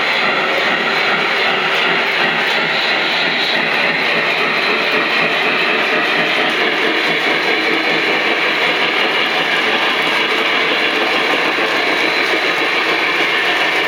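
Lionel O-scale model trains running around three-rail Fastrack: a steady rolling rumble and hiss from the wheels, motors and onboard locomotive sound effects.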